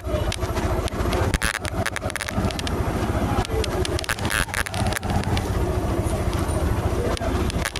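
Road noise during a bike ride: a steady low rumble with many short knocks and rattles.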